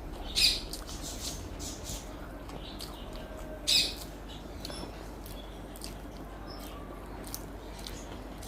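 Close-up eating sounds: soft chewing and small wet mouth clicks, with two louder, sharp smacks, one about half a second in and one near four seconds in.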